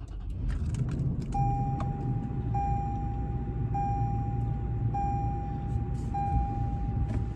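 2020 Toyota 4Runner's 4.0-litre V6 just started and idling, heard from inside the cabin. From about a second in, a dashboard warning chime sounds over it as one steady tone, repeating in sections about a second long.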